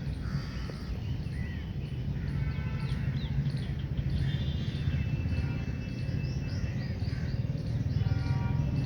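Birds chirping and calling in quick, gliding notes, with a steady low rumble of background noise underneath.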